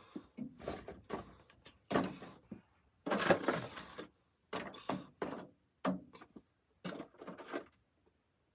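A string of irregular knocks, clunks and rustles, as of things being handled and moved about, the loudest about three seconds in.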